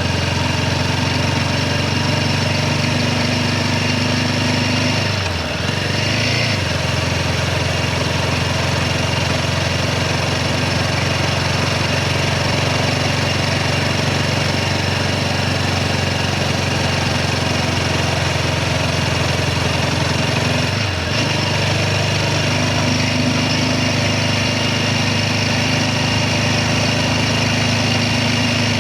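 Royal Enfield Guerrilla 450's single-cylinder engine running steadily under way, its note dipping briefly twice, about five seconds in and again about twenty seconds in, before settling back.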